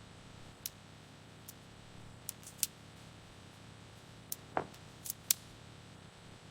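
Faint room tone with scattered sharp, light clicks, about eight of them at uneven intervals, and a quick falling chirp a little past halfway.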